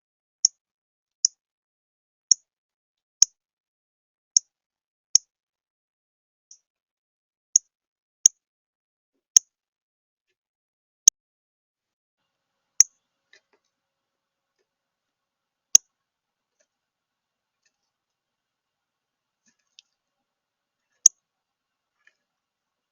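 A bird's short, sharp, high chip calls, repeated at irregular intervals of about a second, with longer gaps in the later part.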